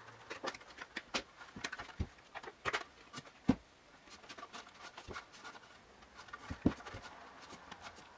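Scattered light clicks and knocks of hands working a rubber bike inner tube onto a plywood bandsaw wheel, with sharper knocks about three and a half seconds in and again near seven seconds.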